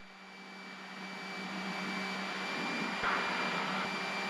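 Steady drone of a Piper Cherokee's engine and cockpit noise in flight, carrying a steady low hum. It grows gradually louder over the first two seconds, then holds.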